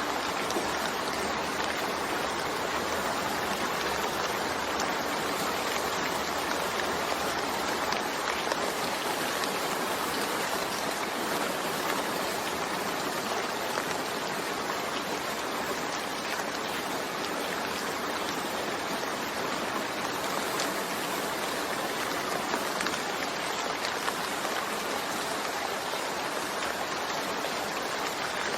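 Steady rainfall, an even hiss of many fine drops with no thunder.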